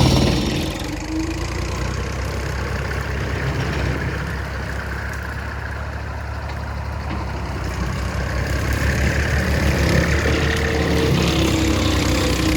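Small tractor's engine running steadily, easing off in the middle and building again in the last few seconds.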